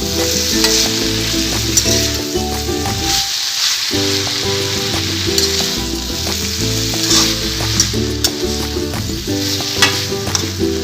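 Watermelon rind, tomato, spice paste and grated coconut sizzling in mustard oil in a pan, being stir-fried down (koshano), with the spatula clicking and scraping against the pan now and then.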